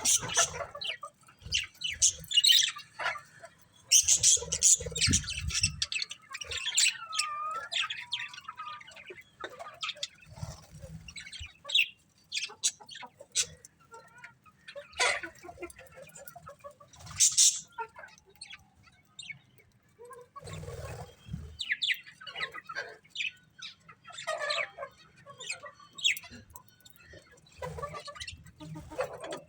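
Budgerigars chirping and chattering: a dense, uneven stream of short high chirps with some gliding warbled notes. A few low bumps come in among the calls.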